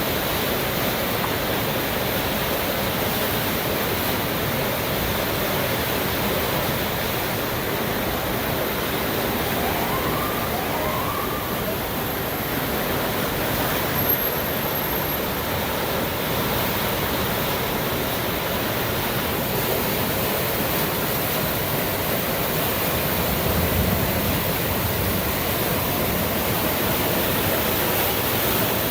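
The Little Pigeon River in flood after hours of rain, its high fast water making a steady rushing roar.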